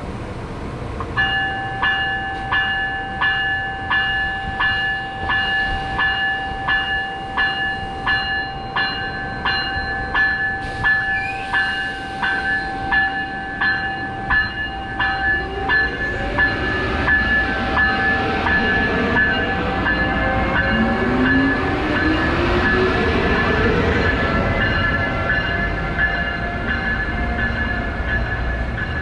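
A bell rings in steady strokes, about one and a half a second, for the first half. A train then comes through with rising rail and wheel noise, gliding whines and a steady high ringing tone.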